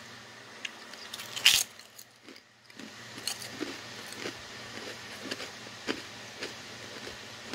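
Kettle-cooked potato chips being crunched in the mouth: one sharp crunch about a second and a half in, then a run of small irregular crunches as they are chewed.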